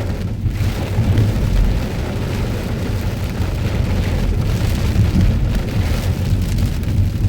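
Heavy rain pouring down in strong wind ahead of a hurricane: a loud, steady rushing noise with a deep rumble underneath.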